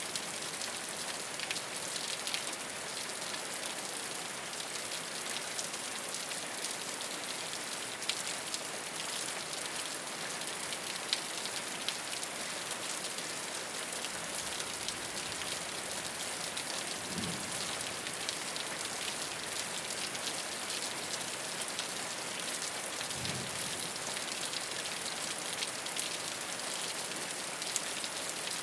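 Steady rain falling on a rooftop: a dense, even hiss with scattered sharper drop ticks. Two brief soft low thumps come about two-thirds of the way through, a few seconds apart.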